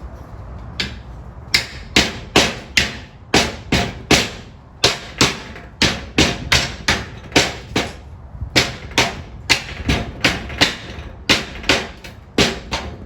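Hammer striking steel plate over and over, about two to three sharp ringing blows a second, starting about a second in.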